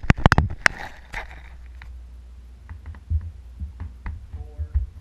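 A few sharp clicks in the first second, then a GE BF-1 box fan running at a middle setting of its variable-speed slider, with a steady low rumble.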